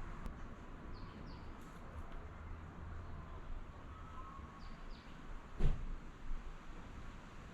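House finches chirping: two pairs of short, high, falling notes about a second in and again near five seconds, over a steady low background rumble. A single sharp knock just after the second pair is the loudest sound.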